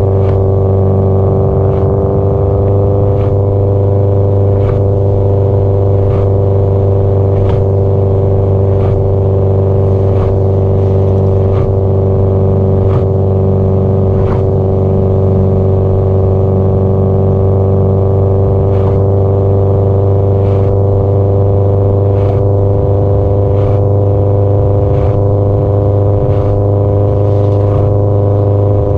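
Exhaust note of a Subaru Impreza WRX STI GDB-E, its 2.0-litre turbocharged flat-four holding a steady cruise with an even low rumble. Faint ticks come at a regular pace of about one every second and a half.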